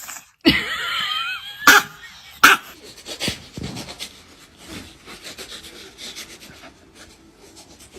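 A dog panting and moving about, with two sharp knocks a second or two in.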